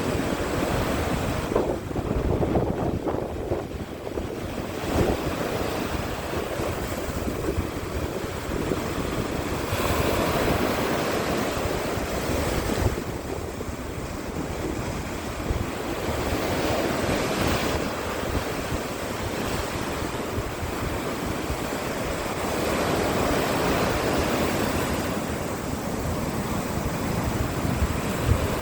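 Stormy sea surf: waves breaking and washing in, swelling and easing every few seconds, under strong wind that buffets the microphone with a low rumble.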